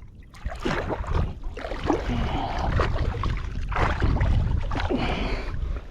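Shallow seawater sloshing and splashing in irregular surges, as from wading through it, over a steady low rumble of wind on the microphone.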